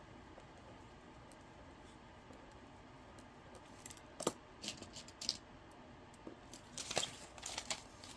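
Quiet handling of paper cash and a budget envelope: a few short clicks and papery rustles, a cluster about halfway through and another near the end.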